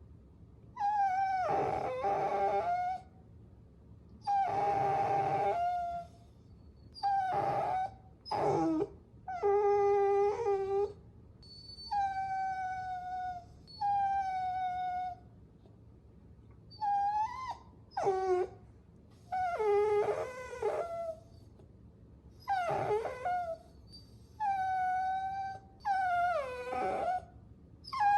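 Puppies whining: a series of drawn-out, high-pitched whines, each about one to two seconds long with short pauses between. Some hold a steady pitch and others bend up or down, and a few break into a rougher, howl-like cry.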